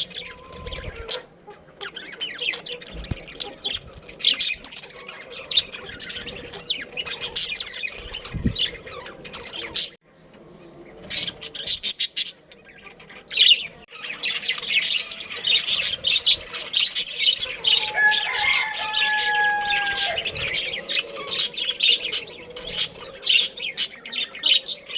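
A colony of budgerigars chirping and chattering: a dense stream of short, high chirps and squawks, with a brief lull partway through. Near the end one longer, steady call is held for about two seconds.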